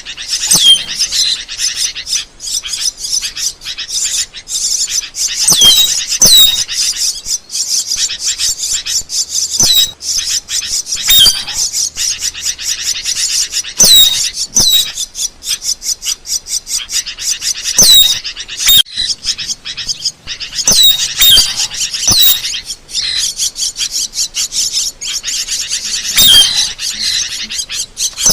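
Asian glossy starling calling without pause: a fast run of sharp chirps and clicks, broken every few seconds by short high whistled notes that bend in pitch.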